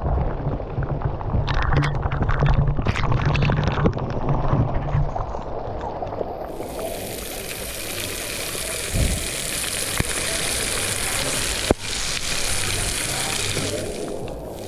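Rushing water of a waterfall, with low rumbling and knocks on the microphone for the first several seconds. From about six and a half seconds in, a loud, even hiss of falling water takes over.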